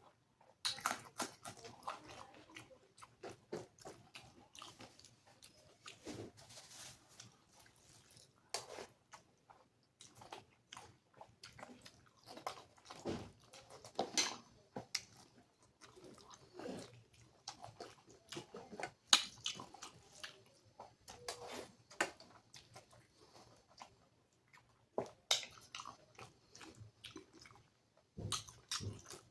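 Close-miked chewing and wet mouth sounds of a person eating rice mixed with dal and fried potato, with irregular clicks and smacks between bites.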